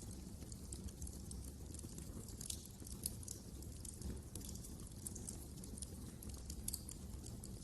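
Wood fire crackling in a fireplace: irregular sharp pops and snaps scattered over a steady low rumble of burning.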